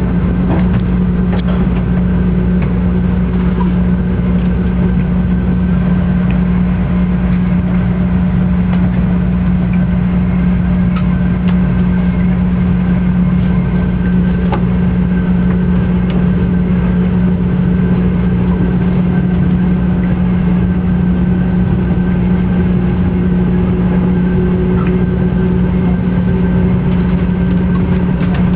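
Joetsu Shinkansen bullet train running at steady speed: a constant rumble with a strong low hum that does not change, with a few faint ticks.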